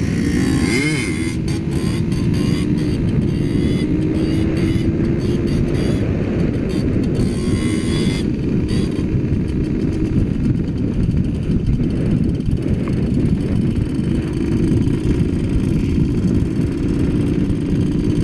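Trail motorcycle engine running under way, heard from the rider's own bike with wind rumble on the microphone. The engine note rises briefly about a second in, then holds fairly steady.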